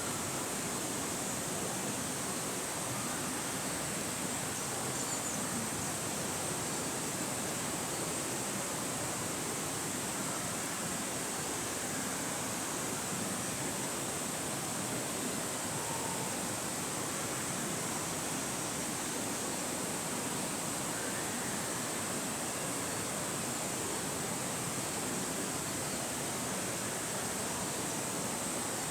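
Steady rushing of a mountain stream, an even unbroken hiss with no breaks.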